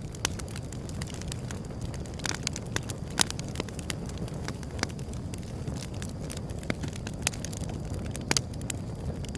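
Wood fire crackling: irregular sharp pops and snaps over a low steady rumble, with the loudest pops about three seconds in and again near the end.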